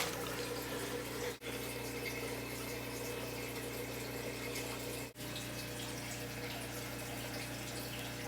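Steady hum with an even hiss like running water, cut by two brief dropouts, about a second and a half in and again about five seconds in.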